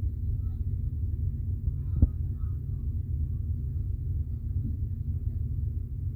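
Steady low rumble of a passenger ferry's engines heard on board, with one sharp click about two seconds in.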